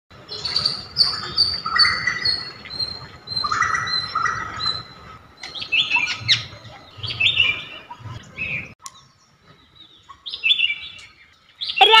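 Birds chirping and twittering in repeated short, high calls. The sound cuts off suddenly about nine seconds in, and a few more chirps follow shortly after.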